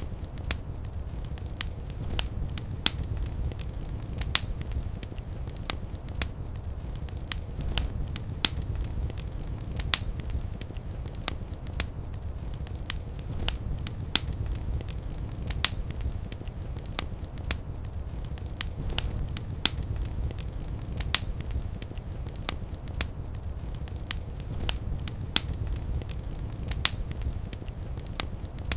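Wood fire burning with a steady low roar of flames and frequent sharp, irregular crackles and pops.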